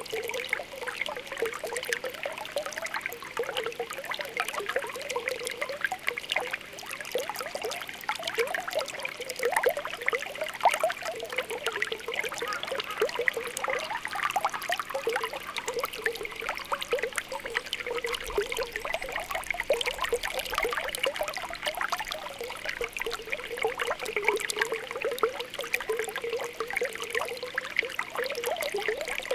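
Spring water welling up from the ground, bubbling and popping continuously with many small rapid blips over a steady trickle.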